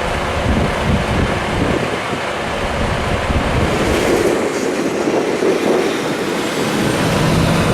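Truck driving, heard from inside the cab: a steady rumble of road and drivetrain noise.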